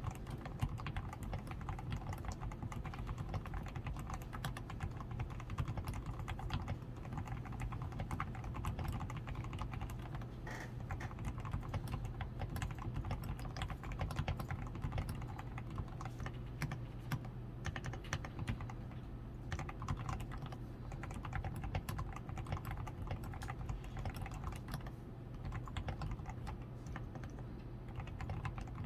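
DAREU A87 Pro mechanical keyboard being typed on in a steady, continuous run of keystrokes. The keyboard is fully lubricated with Krytox 105, with lubed stabilizers, a PCB tape mod, reinforced switch foam and XDA keycaps.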